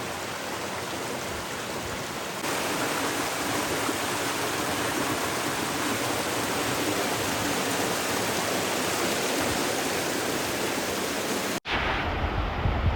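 Steady rush of flowing water, such as a mountain stream or waterfall, getting louder about two and a half seconds in. Near the end it cuts off suddenly to a low rumble of wind on the microphone.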